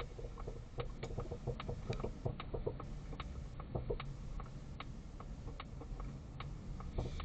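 Polestar 2 suspension clicking and knocking irregularly, with short squeaks, over low road rumble heard inside the car while turning. The noise persists despite replacement strut bearings.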